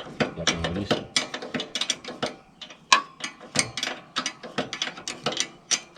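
Ratchet wrench clicking in quick, uneven strokes as a nut is undone on a tractor.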